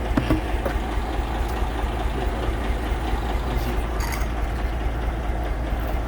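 Fuso tipper truck's diesel engine idling steadily with a low, even rumble.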